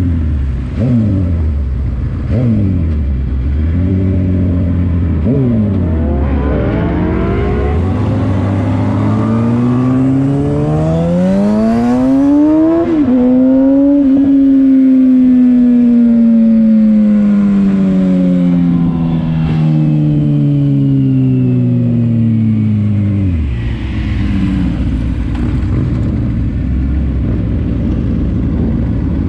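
Vehicle engine revving in several quick blips, then rising steadily in pitch as it accelerates hard, with a brief change near the top, then falling slowly as it slows, and settling to a low steady run near the end.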